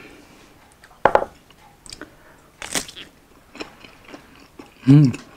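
Close-up mouth sounds of biting into a grilled Hungarian sausage and chewing it, with a sharp bite about a second in. Near the end comes a short voiced hum.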